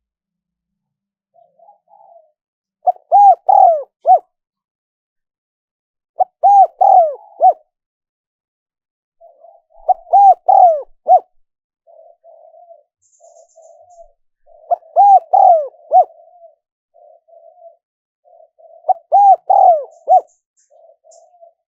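Spotted dove cooing: a short phrase of three or four rounded notes repeated about every four seconds, five times, with softer low cooing between the phrases from about halfway in.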